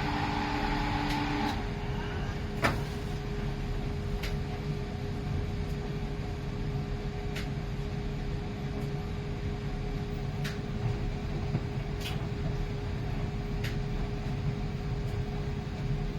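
Miele PW 6080 commercial washing machine running: a steady motor hum over a low rumble, with occasional sharp clicks every second or two. A second, higher tone cuts off about a second and a half in.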